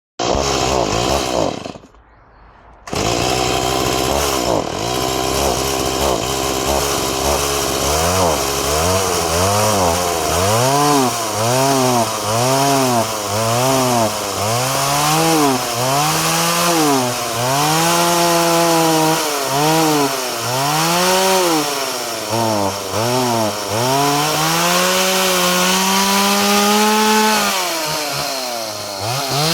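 Freshly repaired two-stroke chainsaw being test-run: it drops out briefly about two seconds in, then runs again and is revved up and down over and over, about once a second, with a few longer held revs near the end.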